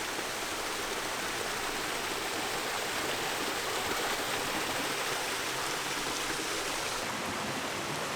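Mountain stream water rushing over rocks: a steady, even flowing sound.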